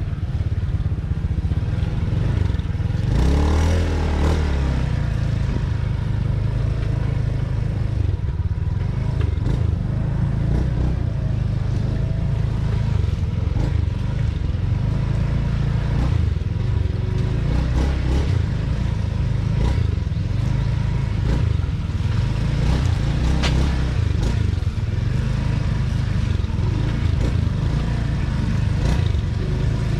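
Motorcycle running steadily while being ridden along the road, with a constant low rumble throughout.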